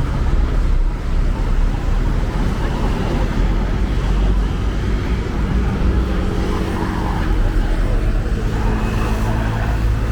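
City road traffic: a steady low rumble of car engines and tyres, with a vehicle engine hum coming through more clearly in the second half.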